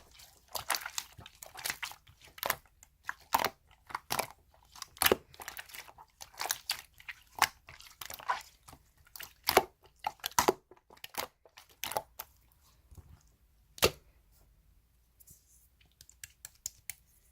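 Slime being squeezed and poked by hand: irregular sticky clicks and pops, several a second, thinning to a few faint clicks after about fourteen seconds.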